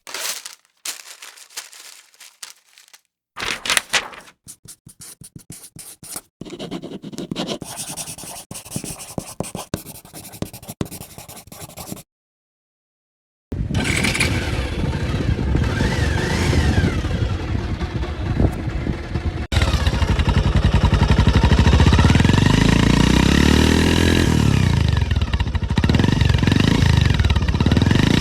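Power drill sounds. First comes a run of irregular scraping and crackling clicks as the bit works into material. After a short silence, a loud drill motor runs continuously, its pitch rising and falling as the speed changes.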